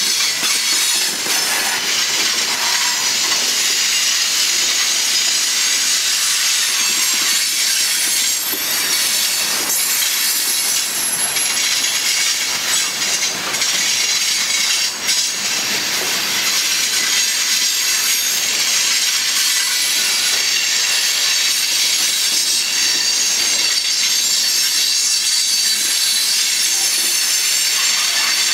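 Coal hopper cars of a freight train rolling past: steel wheels running on the rails in a steady hiss, with scattered clicks and a faint thin wheel squeal.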